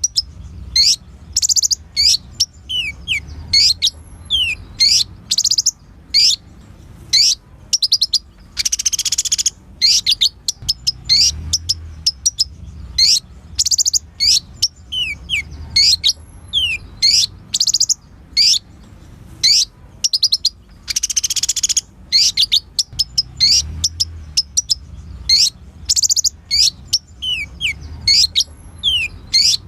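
Sunbird song: rapid, sharp, high chirps and quick downward-sliding notes, broken twice by a second-long buzzy trill. The same sequence of phrases comes round about every twelve seconds, as in a looped recording.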